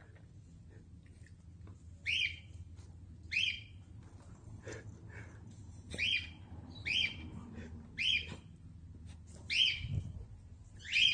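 A bird calling: seven short, sharp calls, each dropping slightly in pitch, spaced irregularly about a second apart.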